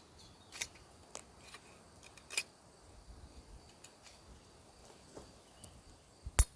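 Ontario Bushcraft machete's 5160 steel blade shaving dry wood for a feather stick: a series of short, separate scraping cuts about a second apart, with one sharp, louder knock near the end.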